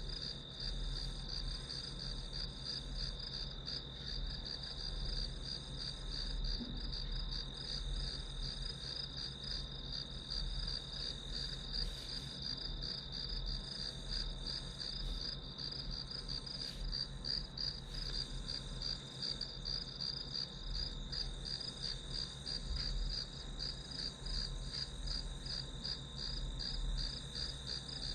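Crickets chirping in a steady, fast pulsing trill that never lets up, with a faint low hum underneath.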